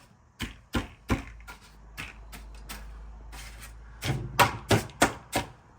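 A series of sharp knocks and taps, irregular at first, then a quicker run of about five strikes near the end.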